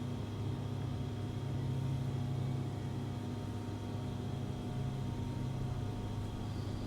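Tram giving off a steady low electrical hum, with faint fixed tones above it and no change in pitch or level.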